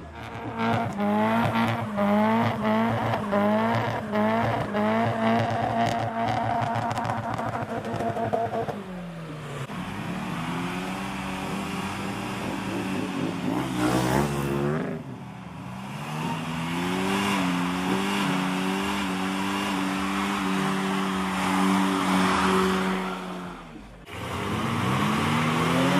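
Car engines revved hard and held at high revs while the tyres spin and squeal in burnouts. For the first several seconds the revs rise and drop about twice a second, then hold steady. The sound breaks off and restarts abruptly a few times.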